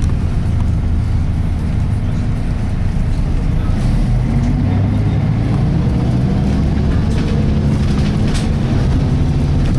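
Volvo B10BLE single-decker bus with a Voith automatic gearbox running under way, heard from inside the saloon. The engine note rises about four seconds in as the bus pulls harder.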